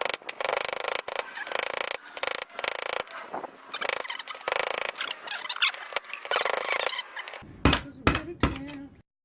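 Hand tools working on metal car parts: rapid, uneven scraping and clicking, then a few heavy knocks near the end before it cuts off suddenly.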